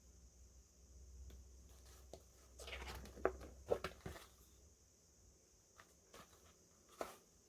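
Faint handling noises from unboxing a boxed merchandise set: a cluster of rustles and light taps about three to four seconds in, and a single click near the end.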